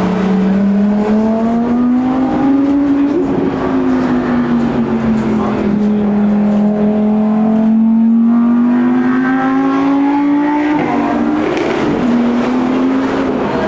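A high-performance car engine accelerating under load. Its note climbs, dips and climbs again over several seconds, then falls sharply about eleven seconds in, like a gear change or lifting off.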